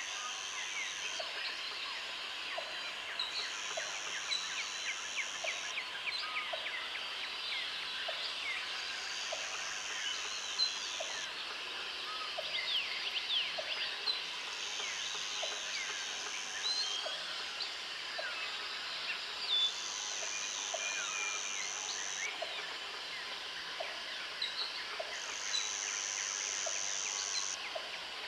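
Jungle ambience: many birds chirping and calling together, with an insect's high buzz that comes in repeated bursts of about two seconds. Under them runs a steady rhythm of short low notes, a little more than one a second.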